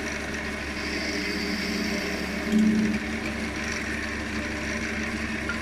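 Wood lathe running steadily with a small elm workpiece spinning, with a brief louder burst about two and a half seconds in.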